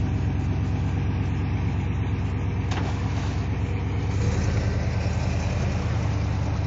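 Truck engine running steadily at a low, even hum during a tow out of a mud hole, with a single click about 2.8 seconds in and the hum shifting slightly louder about four seconds in.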